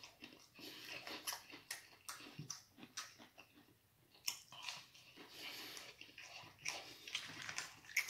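Close-up mouth sounds of someone chewing fried breaded food: irregular wet smacking and light crunching.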